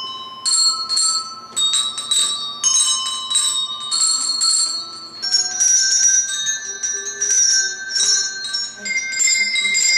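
Children's handbells played one at a time as a simple melody, each child ringing the one numbered bell they hold. A new note comes about every half second, at changing pitches, and each bell keeps ringing under the next.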